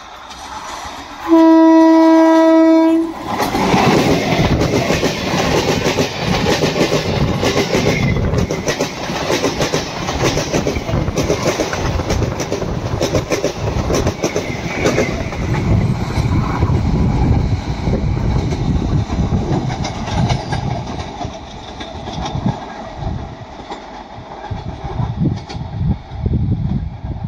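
Electric multiple unit local train sounding one long horn blast about a second in, then passing close by: a heavy rumble with wheels clattering over the rail joints, fading gradually after about twenty seconds.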